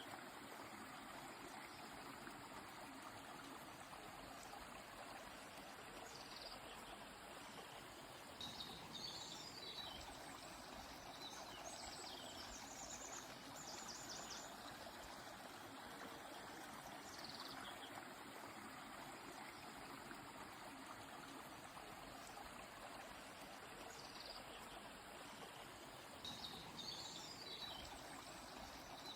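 Faint, steady rush of a flowing stream, with songbirds chirping and trilling every few seconds. The same bird phrases recur about every 17 seconds, as in a looped recording.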